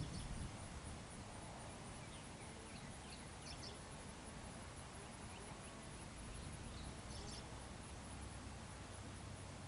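Quiet outdoor ambience: faint, scattered bird chirps over a steady low background rumble.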